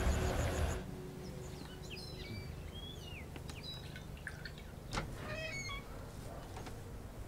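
Music cuts off within the first second, leaving a garden ambience of several birds chirping and singing in short rising and falling calls. A single sharp click comes about five seconds in.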